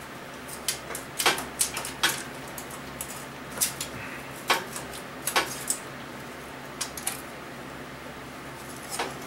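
Irregular sharp metallic clinks and taps, about a dozen over several seconds, from hand tools and small bolts being handled while unbolting an engine's exhaust manifolds.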